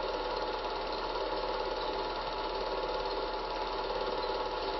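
Steady mechanical whirr and hiss with a constant low mains hum, even in level throughout.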